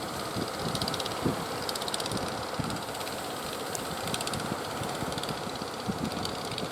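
Boat engine running steadily, with fast ticking in its sound and low thumps of wind buffeting the microphone.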